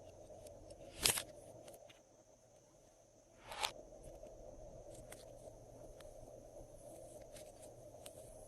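Glossy slime being squished and stretched by hand: many small sticky clicks, with two louder squelches about a second in and about three and a half seconds in.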